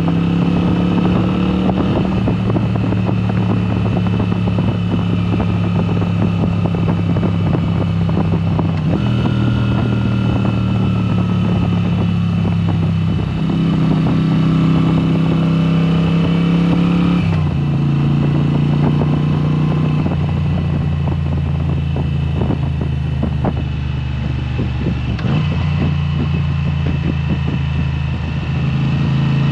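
Moto Guzzi V7 Special's air-cooled V-twin running through a Mistral exhaust with the dB killers removed, the bike riding along at steady throttle. The engine note steps in pitch several times, about a third of the way in, past the middle and near the end, as speed and gears change.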